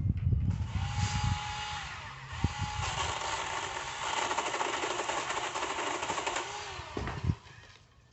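Chainsaw revved up to full speed and held there for about six seconds, with one brief dip, then let off.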